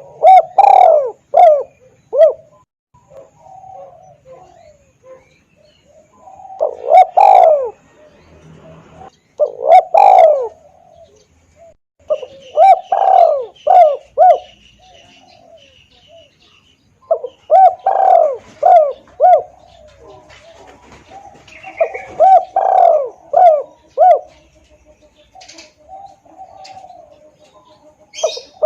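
Spotted dove cooing: about half a dozen repeated call phrases, each a loud swooping coo followed by a few shorter coos, coming every few seconds. It is a loud, clear lure call used to draw in wild doves.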